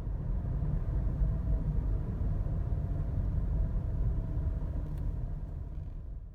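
Steady low rumble of a vehicle driving, which cuts off abruptly near the end.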